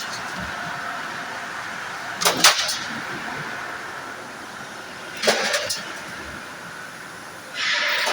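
C/Z purlin roll-forming line running with a steady mechanical drone. Three loud, short clattering strokes about three seconds apart, each lasting around half a second, fit the CNC punching unit striking the strip.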